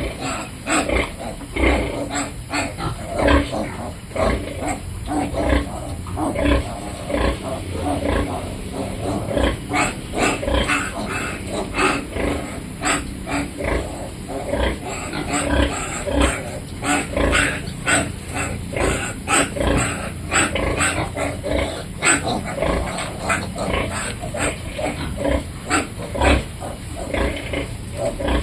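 Piglets grunting and squealing as they feed: a busy, continuous jumble of short calls.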